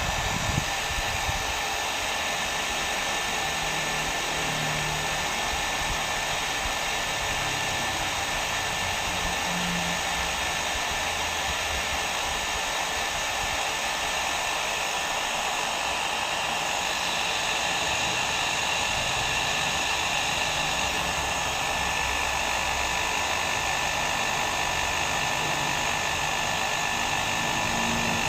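Hair dryer running continuously: a steady, even rush of blown air with a faint high whine in it. The sound grows slightly brighter about seventeen seconds in.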